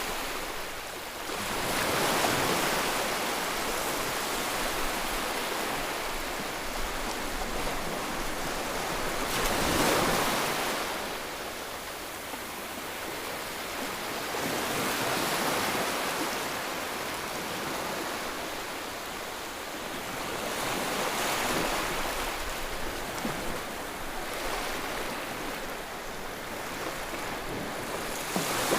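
White noise for soothing a baby: a steady rushing hiss that swells and ebbs slowly, about every five to seven seconds.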